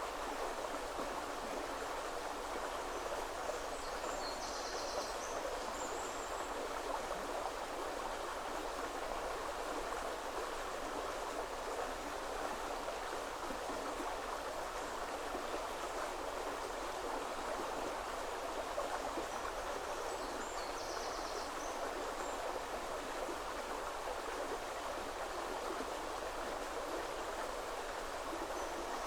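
River water flowing steadily over stones, a constant rushing. A small bird gives a short, high song phrase three times over it: once a few seconds in, once around the middle, and once near the end.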